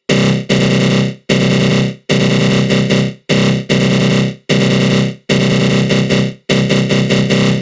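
Synthesized attack growl from a GMS synth run through a flanger: a loud, harsh, buzzing growl. It repeats in bursts cut by brief drop-outs about once a second.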